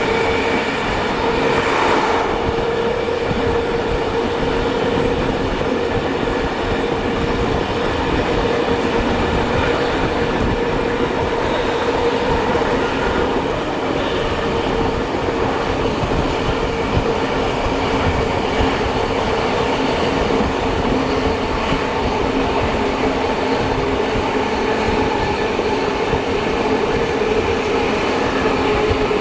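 Passenger train running steadily along the rails behind steam locomotives 3526 and 3265, heard from on board: a continuous rumble of running noise with a steady hum.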